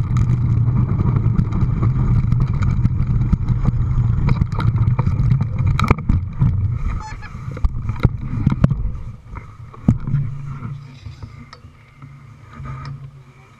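An engine running with a steady low drone and scattered clicks. It fades away after about nine seconds.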